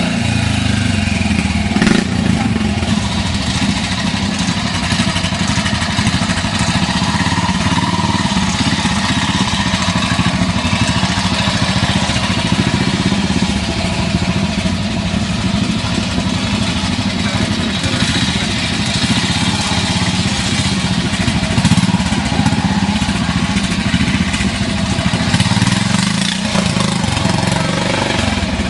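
Classic trials motorcycle engine running and being revved, rising and falling a little in level.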